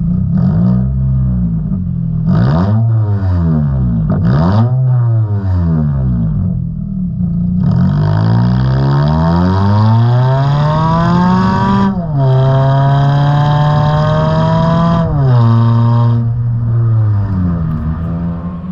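Toyota Camry SE with a muffler-delete axle-back exhaust, revving: several quick blips of the throttle, then a long climb in revs that drops suddenly about twelve seconds in, holds steady for a few seconds, steps down again and settles back.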